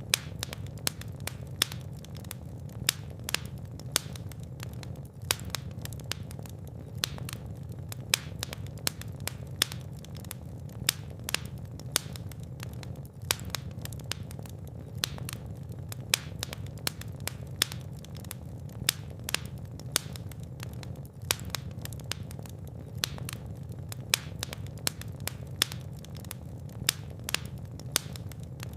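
Fire burning in a fireplace: a steady low rumble of flames with frequent sharp crackles and pops at irregular intervals, several a second.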